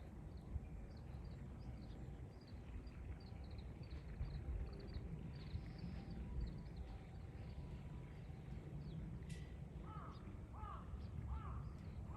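Small birds chirp in high, rapid twitters. About ten seconds in, a crow caws four times in an even series, over a low rumble.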